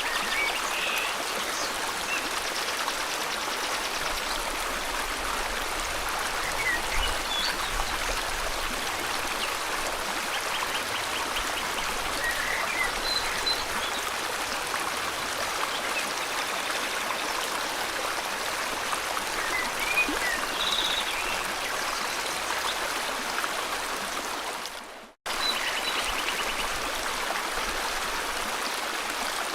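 River water flowing steadily, with scattered short bird chirps and trills over it. About three-quarters of the way in, the whole sound fades out to silence for a moment and cuts straight back in.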